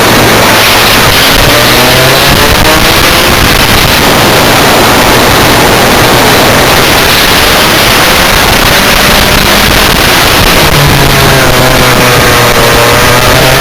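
Rotax Max Senior 125 two-stroke kart engine at racing speed, its pitch climbing and falling as it revs out and drops back through corners, under a dense rush of noise.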